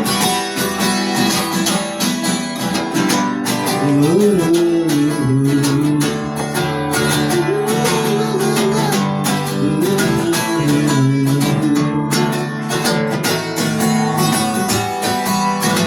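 Strummed acoustic guitar playing a gentle, even rhythm between sung lines of a love song. A wordless melody wavers over it from about four seconds in until about twelve seconds.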